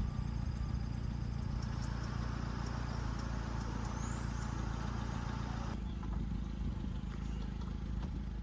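A vehicle running, with a steady low rumble; a hiss in the middle range cuts off suddenly about six seconds in.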